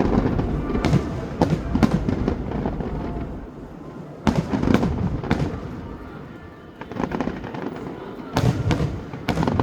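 Aerial fireworks bursting in volleys of sharp bangs: a cluster near the start, another about four seconds in, and a third near the end, with a brief lull between.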